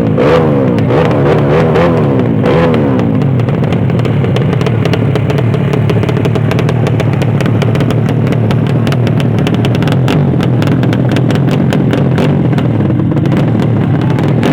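Motorcycle engines revving, the pitch rising and falling again and again in the first few seconds, then running steadily at a loud level.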